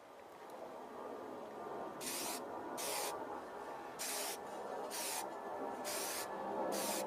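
Aerosol spray-paint can spraying black paint onto motorcycle exhaust baffles in short hissing bursts, about six of them roughly a second apart, starting about two seconds in.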